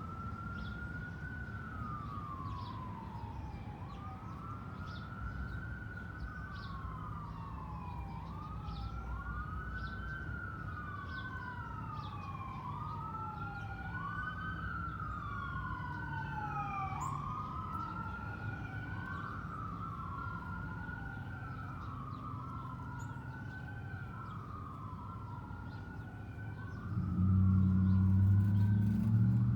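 Emergency-vehicle siren wailing in repeated cycles, each rising quickly and then falling slowly in pitch, with some cycles overlapping. A louder low rumble comes in near the end.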